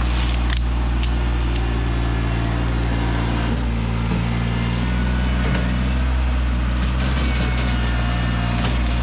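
Rural King RK24 compact tractor engine running steadily, its pitch shifting slightly a few seconds in.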